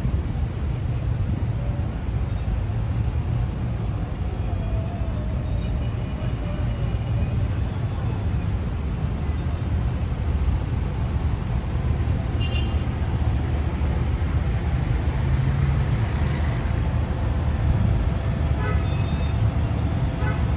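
Steady city street traffic: a continuous low rumble of passing cars and buses, with faint voices now and then.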